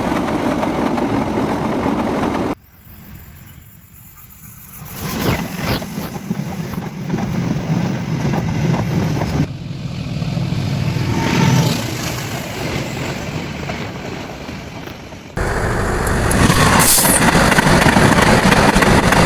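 A train running, heard as a steady, loud rumble, with sudden cuts between several short stretches of it.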